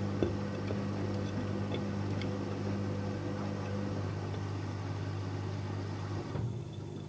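Electrolux washing machine's motor running with a steady hum and a few light ticks, then stopping about six seconds in with a soft knock.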